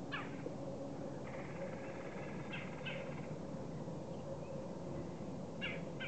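Bird calls: several short calls, with one longer, drawn-out call starting about a second in and lasting nearly two seconds.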